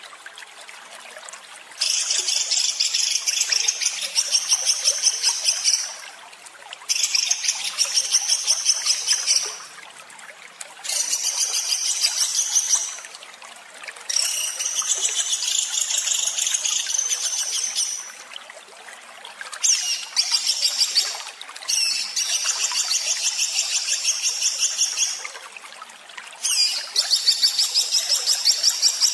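Songbird singing harsh, rapid-fire 'tembakan kasar' phrases: fast runs of closely repeated high, rough notes in bouts of two to four seconds, about seven of them, separated by short pauses. A faint steady hiss fills the gaps.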